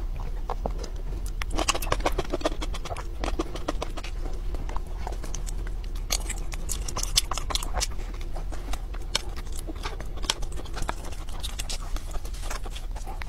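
Close-miked eating sounds: chewing with many irregular wet clicks and lip smacks.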